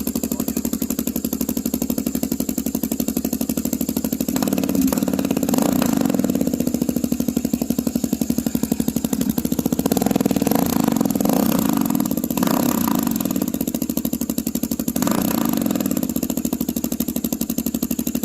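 2022 Kawasaki KLR650's single-cylinder engine idling through an open aftermarket Delkevic exhaust: a loud, steady pulsing beat that swells slightly a few times.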